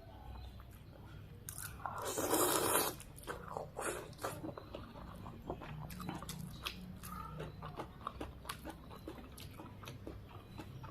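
Close-up eating of a noodle soup: chewing with many small wet clicks and crunches, and a loud rush of air lasting under a second about two seconds in.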